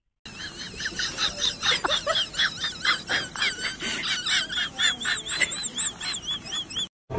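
Small birds chirping and twittering: a rapid jumble of short high chirps, joined by repeated rising-and-falling whistled notes in the second half, cutting off suddenly near the end.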